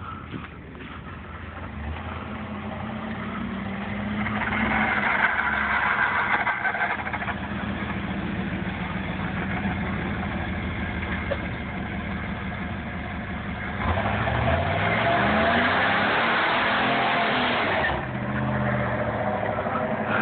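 Third-generation Pontiac Firebird's engine revving hard through a burnout, rear tyres spinning on asphalt. The revs climb in a rising sweep about fourteen seconds in, stay high, and fall away about eighteen seconds in.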